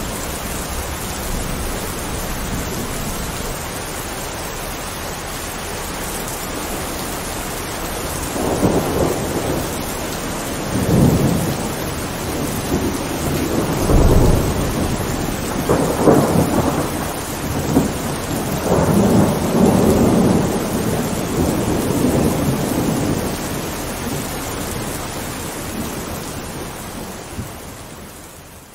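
Heavy rain falling steadily, with a long roll of thunder rumbling in several surges through the middle. The sound fades away near the end.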